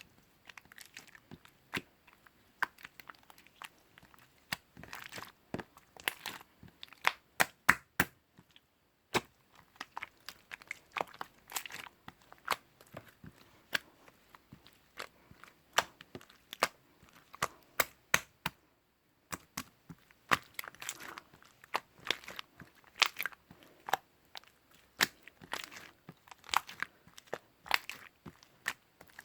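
Slime being pressed and worked by hand, giving off a dense, irregular run of sharp crackles and pops, with two short pauses.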